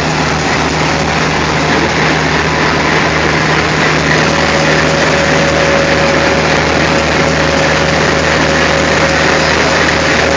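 ALCO diesel locomotive engine idling with a steady low drone. A faint steady whine joins about four seconds in.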